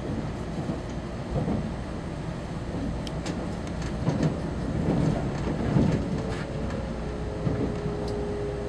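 Cabin noise inside a moving Taiwan Railway Puyuma Express (TEMU2000 tilting electric multiple unit): a steady rumble of wheels on rail with occasional clicks. A steady tone joins in about six and a half seconds in.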